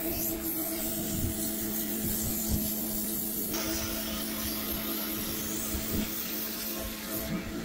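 Pressure washer running, its jet of water spraying hard onto patio paving with a steady hissing spray over the motor's hum; the spray grows brighter about three and a half seconds in.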